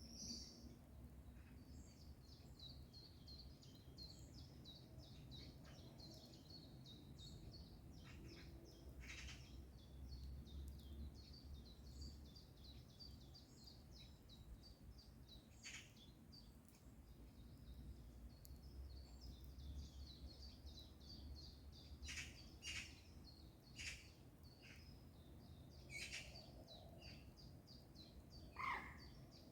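Faint birdsong: a rapid, high twittering trill runs almost throughout, with about eight short, sharp calls scattered through it, the loudest near the end.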